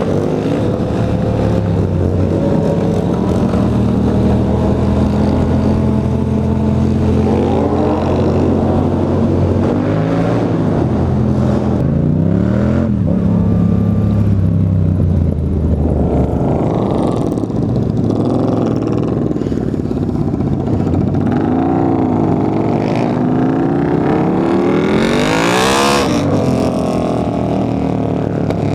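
Yamaha FZ-07's parallel-twin engine running under way, its revs rising and falling several times with a hard rev near the end, over wind rush.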